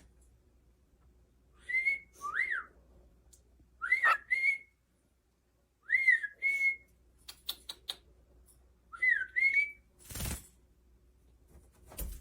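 Cockatiel whistling short two-note phrases, each a quick swoop followed by a held note, repeated about every two seconds. A few sharp clicks come in the middle, and there is a brief burst of noise near the end.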